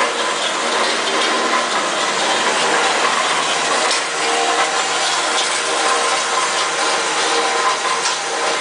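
DAKE Johnson JH10W3 band saw running steadily on its 1 hp three-phase motor, a continuous mechanical whirr with faint ticks. The motor shudders a little, which the owner thinks may need a slight adjustment.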